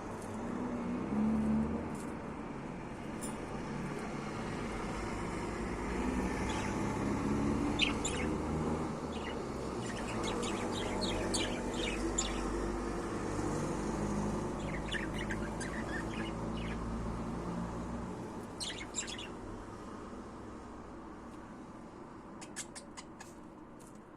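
Budgerigar chirping in short scattered bursts of quick high notes, over a steady low rumble that fades in the second half.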